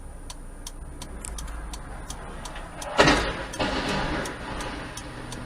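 Car sound as picked up in dashcam footage: a low engine rumble with steady ticking, about three ticks a second. About three seconds in there is a sudden loud noisy bang or crunch that fades out over about a second.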